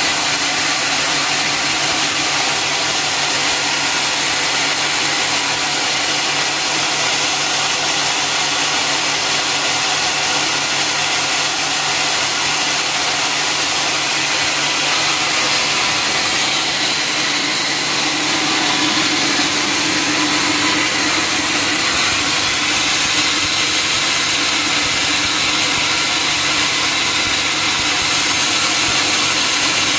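Sawmill saw machinery running steadily: a loud, even mechanical noise with a constant hum and no pauses.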